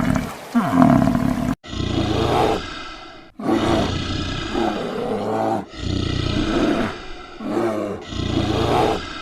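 A large wild animal roaring in a repeated series of long calls, one every second or two.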